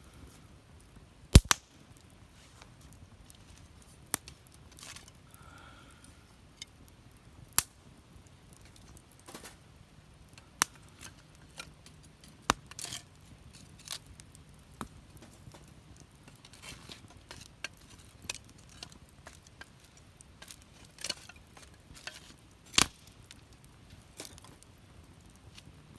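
Wood fire burning in a fire pit, crackling with irregular sharp pops and snaps over a low hiss; the loudest pops come about a second and a half in and again near the end.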